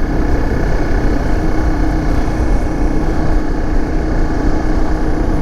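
Dirt bike engine running at a steady pitch while riding, over a heavy low rumble of noise.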